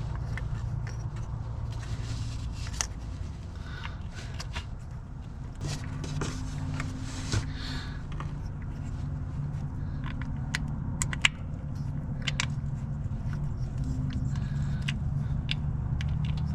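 Hands handling the new camshaft position sensor and small tools: scattered light clicks, taps and scrapes, one sharper click about eleven seconds in, over a steady low rumble.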